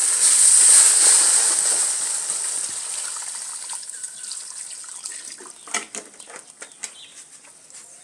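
Water being poured into a cooking pot (sufuria) of chicken, a loud gushing hiss that fades away over the first few seconds, followed by a few light clicks and knocks.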